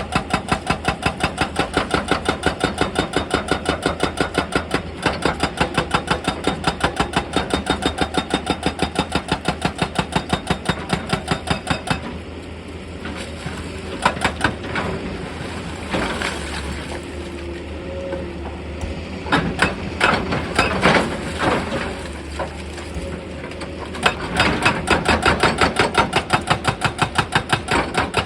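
Excavator-mounted hydraulic rock breaker hammering stone in rapid, even blows over the engine. The hammering stops about twelve seconds in, leaving the engine with scattered knocks and clatter of rock, then starts again about four seconds before the end.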